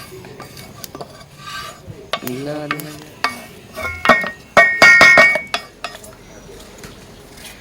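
A metal spoon stirring and scraping in a cooking pot, then clanking against it. A few loud ringing knocks come about four to five seconds in.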